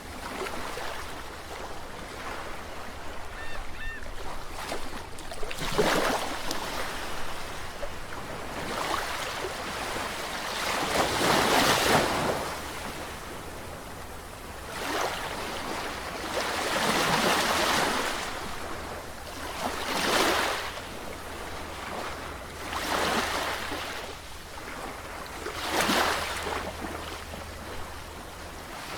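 Sea waves breaking and washing in, rising and falling in repeated surges every few seconds over a steady low rumble; the loudest wave comes a little before the middle.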